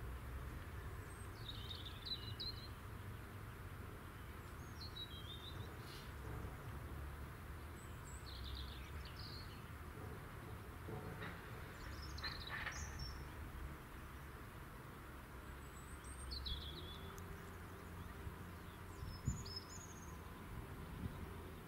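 Small birds singing outdoors: short chirps and trills every couple of seconds over a low steady background rumble. A faint steady hum joins about three-quarters of the way through.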